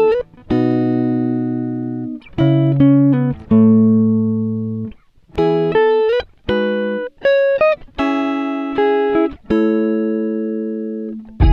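Music: solo guitar playing slow plucked notes and chords that ring and fade away, with a few notes sliding up in pitch.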